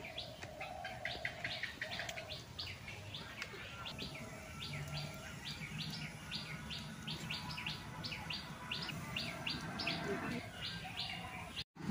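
Small bird chirping over and over, about three quick falling chirps a second, with a lower call now and then.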